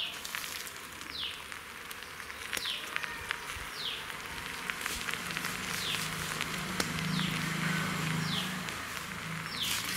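Outdoor ambience: a bird repeats a short falling whistle about once a second over a steady hiss. A low buzz, like a bee or fly near the microphone, rises in the second half.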